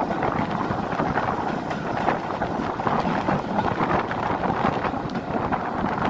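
Wind rushing over a microphone held out of a moving train's carriage window, over the steady rumble and clatter of the coaches' wheels on the track.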